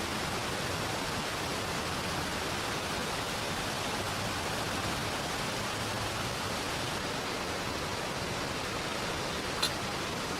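Steady rushing hiss of rain and flowing river water, even throughout, with one sharp click near the end.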